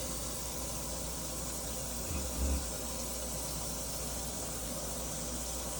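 Steady hiss of water from a washing machine running through a drain pipe as the machine empties, with a brief low bump about two seconds in.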